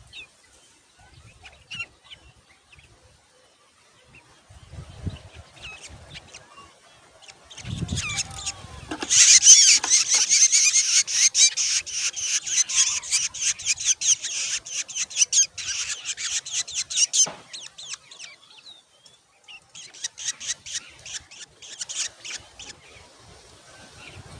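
Black drongo nestlings begging for food: a loud burst of rapid, harsh, high-pitched calls that starts about nine seconds in and lasts some eight seconds, then a shorter run a few seconds later.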